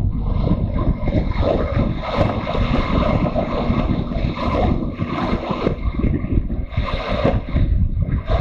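Wind buffeting the microphone of a camera riding on a moving motorcycle: a dense, low rumble that flutters irregularly in loudness, with engine and road noise buried beneath it.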